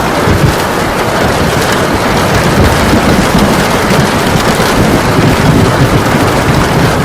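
Heavy rain pouring steadily, a dense even hiss with a low rumble underneath.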